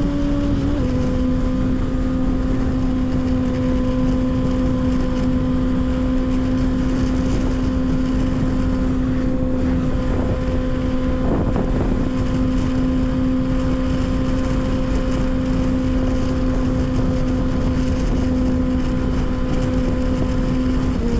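Kawasaki ZX-6R 636 inline-four engine running at a steady cruising speed, its note holding one pitch after a slight drop about a second in. Heavy wind buffeting on the helmet microphone runs under it.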